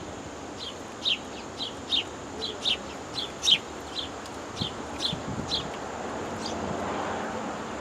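Hummingbird giving short, sharp chip calls, roughly two a second, thinning out near the end, over a steady outdoor hiss.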